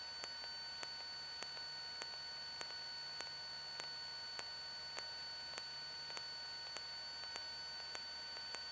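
Faint electrical noise on the cockpit intercom audio feed. A steady hiss with thin high whines runs under a sharp tick that repeats about every 0.6 seconds.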